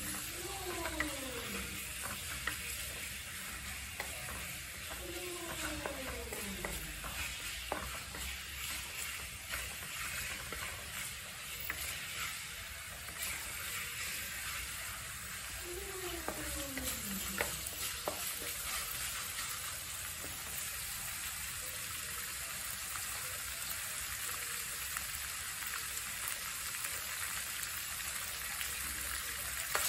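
Spice and fish paste sizzling in oil in a metal wok while a wooden spatula stirs and scrapes it, with a few sharp knocks of the spatula against the pan.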